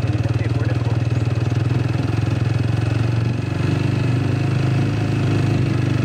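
Motorcycle engine running steadily while being ridden, a strong even low drone with a fast pulse.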